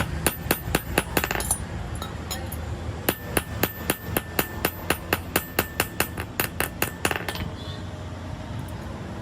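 Hammer striking metal in quick, even blows, about four a second, in a short run, then a pause of about a second and a half, then a longer run.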